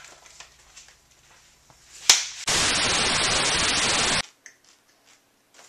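A sharp click, then a steady burst of hiss like TV static lasting under two seconds that cuts off suddenly.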